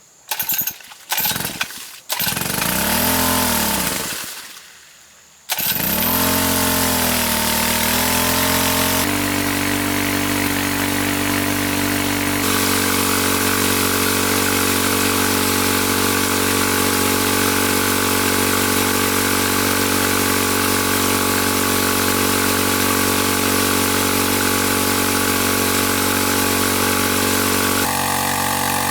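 Small petrol engine being started: a few short stuttering tries, a rev that rises and dies away, then it catches about five seconds in and settles into steady running.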